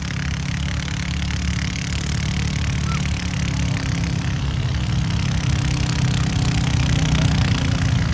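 A pulling tractor's engine running at a steady speed, growing gradually louder.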